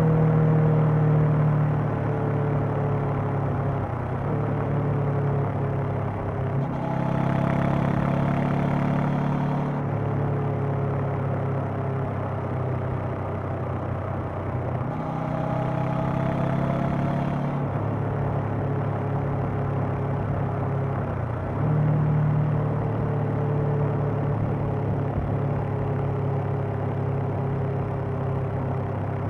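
Honda CB500X's parallel-twin engine and exhaust running on the move, its pitch easing down over the first several seconds and shifting up and down in between, then getting louder again about two-thirds of the way through.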